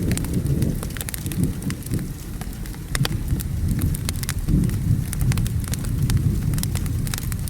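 Wood fire crackling with frequent sharp pops over steady rain, beneath a deep, rolling rumble of thunder.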